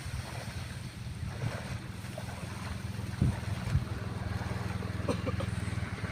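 A small engine running steadily with an even low pulse, with wind noise on the microphone. Two low thumps come a little past the halfway point, about half a second apart.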